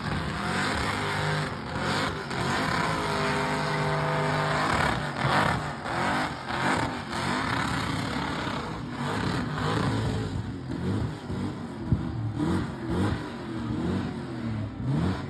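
A burnout car's engine held at high revs for about five seconds, then revved up and down repeatedly in quick rises and falls.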